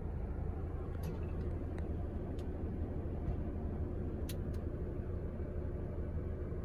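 Volvo XC90 D5 diesel engine idling, a steady low rumble heard from inside the cabin, with a few faint clicks over it.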